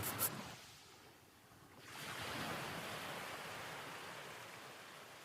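Soft rush of sea surf that swells about two seconds in and slowly fades, after a few faint clicks at the very start.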